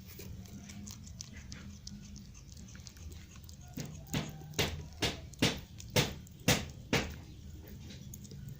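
A run of about eight sharp, loud knocks or crunches, roughly two a second, starting a little under halfway in and stopping about a second and a half before the end.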